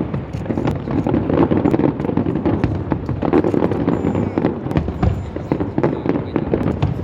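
Fireworks display going off: a dense, continuous run of bangs and crackles over a steady low rumble, with many sharp reports every second.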